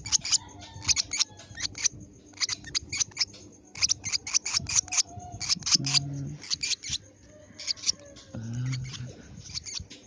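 Lovebird giving rapid, sharp, high chirps in irregular clusters. A brief low voice hum comes twice in the second half.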